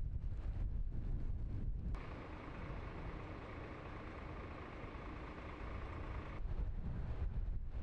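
Storm wind buffeting the microphone with a heavy low rumble. About two seconds in it cuts abruptly to a quieter, even hiss that lasts about four seconds, then the rumble returns.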